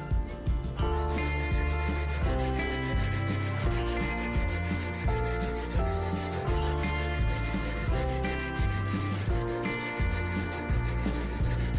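Abrasive rubbing strokes on a steel chisel as it is sanded and polished, over background music with chords and a steady beat.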